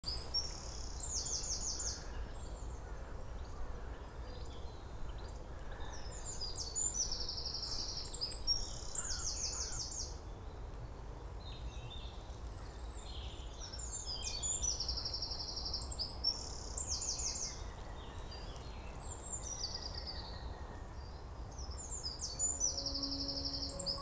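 A songbird singing the same high phrase, ending in a rapid trill, about every seven seconds, with other faint bird calls between, over a steady low outdoor rumble.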